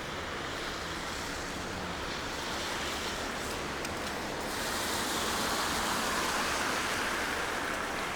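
Steady hiss of a wet, snowy city street, with a vehicle's tyres rushing past on the wet road, swelling from about halfway through and fading near the end.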